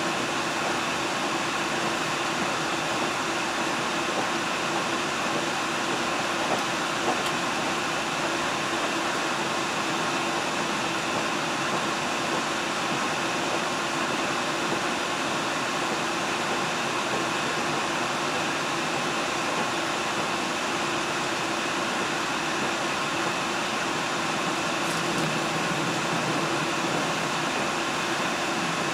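Steady running noise heard inside a diesel train: an even rumble and hiss with a constant hum through it, and two faint clicks about six and seven seconds in.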